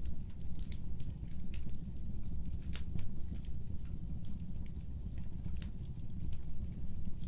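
Fireplace fire crackling: irregular sharp pops and snaps, several a second, over a steady low rumble of flames.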